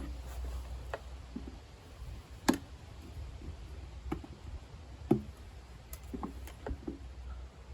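Pliers snipping a small V notch into the edge of a cap: a series of sharp, irregularly spaced snaps, two of them louder than the rest.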